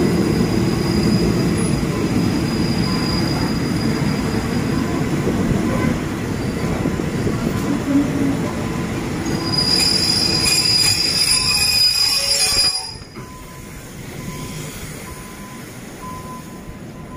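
Passenger train at the station platform, its coaches rumbling with a high metallic squeal from the wheels or brakes. About thirteen seconds in the rumble and squeal cut off sharply, leaving a much quieter hum.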